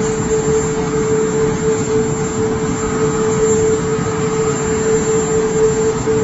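Jet aircraft engine running steadily: a loud, even rush of noise with a constant whine.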